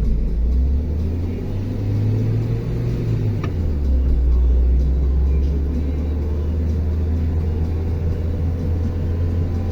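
Worn front right wheel hub bearing droning as the car drives: a loud, low, steady hum that rises in pitch for about a second, from roughly two seconds in, then settles back.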